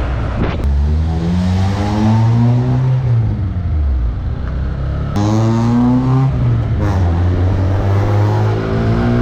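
Modified 1.5-litre engine-swapped Honda City accelerating hard: the engine note climbs steadily in pitch, drops sharply, then climbs again several times as it revs up through the gears.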